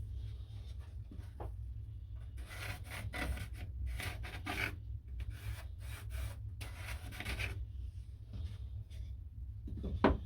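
A hand tool rubbing against wood in a run of short scratchy strokes, then a single sharp knock near the end.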